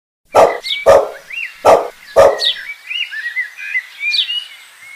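A dog barks four times, in two quick pairs, over birds chirping and twittering.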